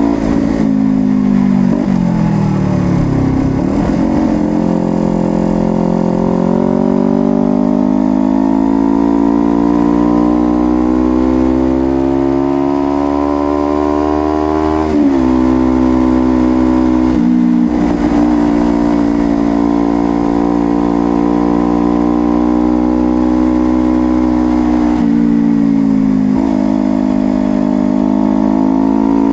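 Honda CBR250RR motorcycle engine under way: the revs fall over the first few seconds, then climb slowly to about halfway, where the note drops suddenly at a gear change. After a brief break in the note, it runs at a steady cruise with a short dip and recovery near the end.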